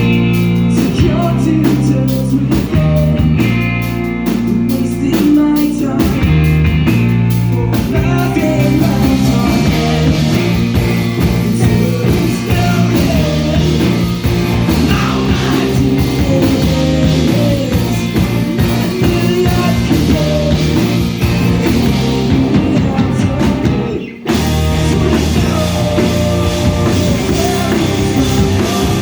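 A rock band playing live: drum kit, electric guitars and bass with a singer, loud and steady, with a split-second stop about 24 seconds in before the band crashes back in.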